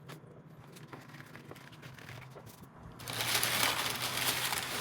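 Faint small handling clicks, then, about three seconds in, loud crinkling and rustling of plastic packaging as it is handled and unwrapped.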